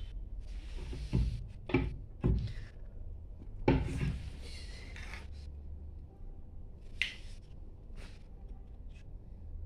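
Knocks and clatter of metal tools and pump parts being handled while a booster water pump is taken apart. There are four sharp knocks in the first four seconds, then a few lighter clicks, over a low rumble.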